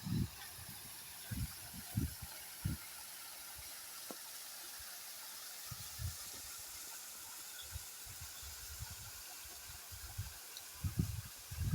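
Steady outdoor hiss, with a few short low thumps near the start and again near the end.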